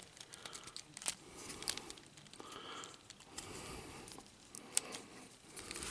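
Hard plastic parts of a Transformers action figure being handled and worked into place: a few scattered small clicks with light rubbing and rustling between them.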